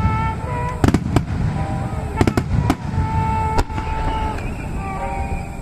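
Starmine fireworks barrage: clusters of sharp bursts about once a second over a continuous low rumble of shells launching and bursting. Music plays underneath.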